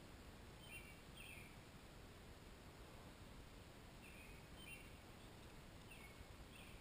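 Faint bird chirps over a steady background hiss: three pairs of short, slightly falling calls, spaced a couple of seconds apart.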